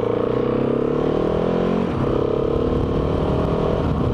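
Motorcycle engine pulling under acceleration. Its pitch rises steadily, drops at a gear change about two seconds in, then climbs again.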